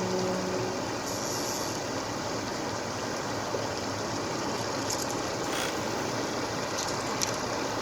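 Steady rushing of a flowing river, with a low hum that fades out in the first second and a few light clicks near the end.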